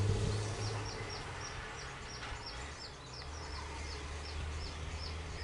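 A bird calling in a rapid series of short, high, falling chirps, about three a second, over the low steady hum of idling vehicle engines.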